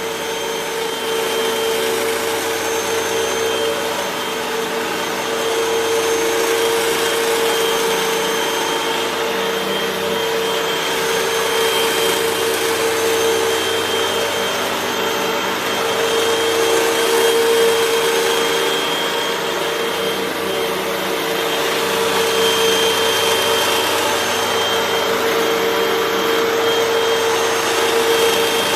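Hoover WindTunnel 3 Pro Pet bagless upright vacuum cleaner running steadily, its motor holding one steady pitch with a faint high whistle above it. The level rises and falls a little.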